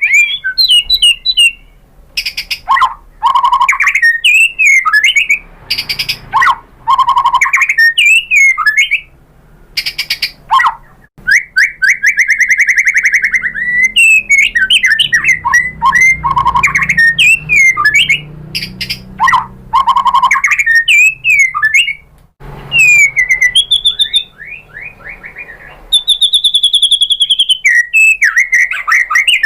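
White-rumped shama singing: loud phrases of clear whistles that glide up and down, mixed with fast rattling trills and sharp high chips, separated by short pauses.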